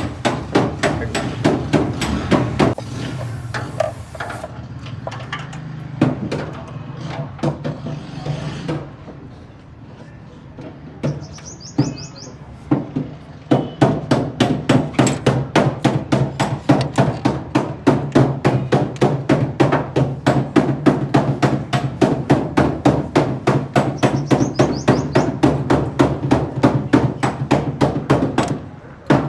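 Suzuki Mehran three-cylinder engine running with an even, sharp ticking knock about three times a second over a steady low hum, the tappet noise the car was brought in for. The ticking drops away for a few seconds in the middle, then comes back as before.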